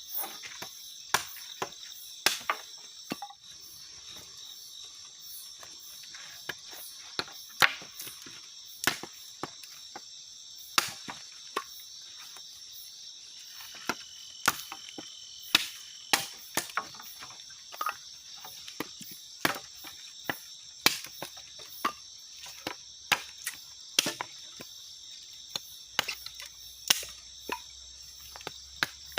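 Steady chorus of crickets and other night insects, overlaid by sharp, irregular chopping knocks about once a second.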